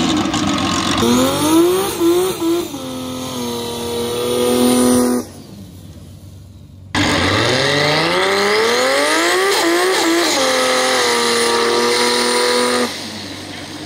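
Race car engine revving hard during a burnout. Twice it climbs in pitch and then holds a steady high pitch: the first pull drops out about five seconds in, and after a short quiet gap a second pull rises from low and holds until near the end.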